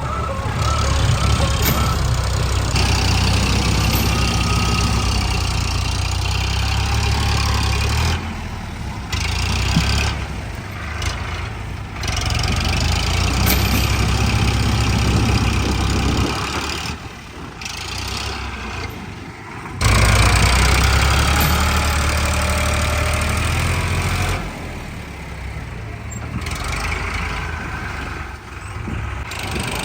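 Diesel tractor engines running hard under load while towing a tractor stuck in mud. The engine sound surges and drops back several times.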